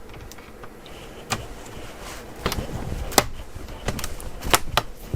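Several sharp clicks and taps at uneven intervals, from the parts of a Medion Akoya S15449 laptop being handled as its battery cover and screws are worked on.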